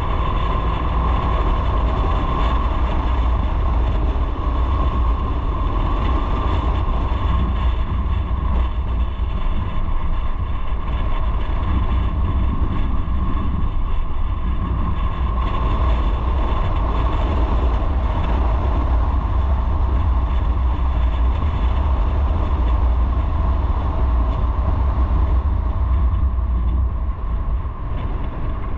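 Steady road and wind noise from a moving motorcycle, a deep wind rumble on the microphone over the engine and tyre noise, easing slightly near the end.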